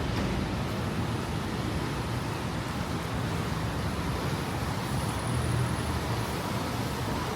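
City road traffic: a steady wash of car and road noise with no single standout event.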